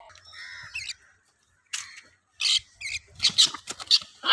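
Parrots giving harsh squawks, first a few scattered calls, then a quick run of loud squawks in the second half.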